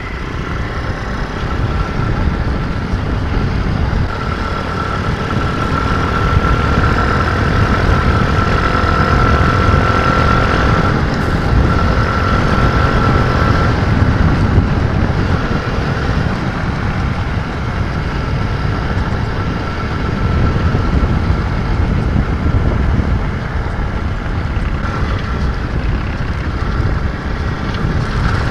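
Nitro Sky 125cc pit bike engine running as the bike is ridden along dirt trails, with heavy rumble on the camera's microphone. The engine note rises a little and holds from about six to fourteen seconds in, then eases back.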